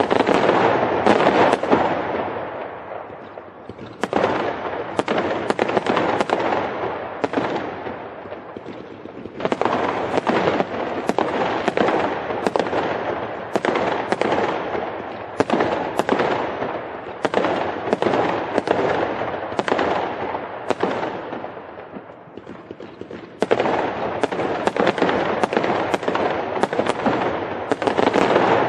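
Fireworks crackling: a dense, rapid stream of sharp pops that swells loud and dies back in waves every four to six seconds.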